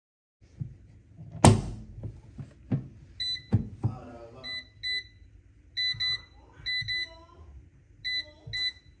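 A loud knock and a few clicks, then about a dozen short electronic beeps in quick groups, typical of buttons being pressed on a kitchen appliance's control panel.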